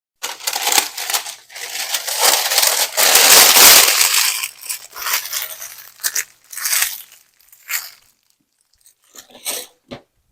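Crinkling and tearing of packaging, continuous and loud for several seconds, then breaking into a few shorter rustles near the end.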